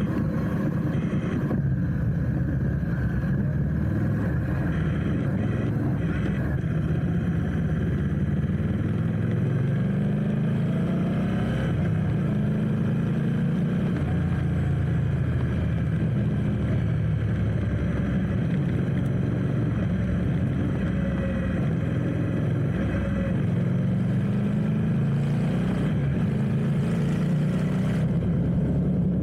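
Motorcycle engine running in stop-and-go traffic, its pitch rising and falling slowly as the rider speeds up and slows down.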